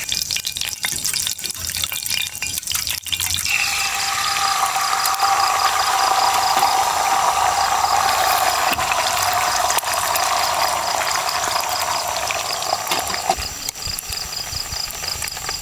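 Water poured steadily into a container for about ten seconds, starting after a few light knocks and clinks and cutting off sharply near the end.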